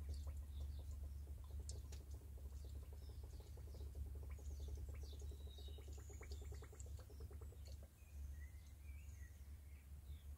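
Faint, steady low hum of the Daihatsu Hijet 1.3's engine idling while air is bled from its cooling system through the open radiator filler neck. Birds chirp over it, mostly in the second half.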